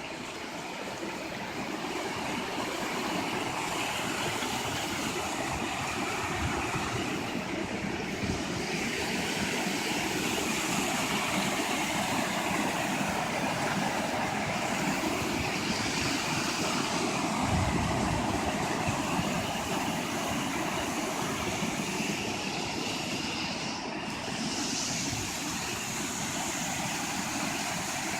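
Waterfall rushing steadily. About halfway through, a brief gust of wind rumbles on the phone's microphone.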